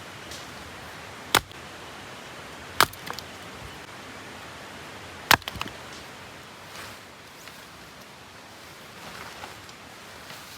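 Three sharp strikes on wood, about a second and a half and then two and a half seconds apart, the last two followed by a few smaller knocks, over a steady outdoor hiss.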